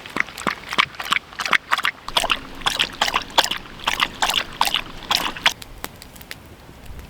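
Water sloshing in short, quick splashes, about three or four a second, stopping about five and a half seconds in.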